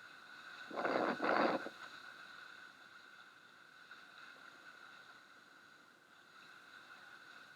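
Water rushing and splashing along the hull of a 420 sailing dinghy sailing fast, with a loud double rush of spray and wind noise about a second in, then a steady, fainter hiss of water.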